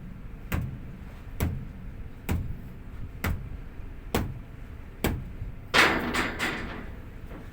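Repeated knocks about once a second, evenly spaced, then a louder scuffing burst with a few quicker knocks about six seconds in.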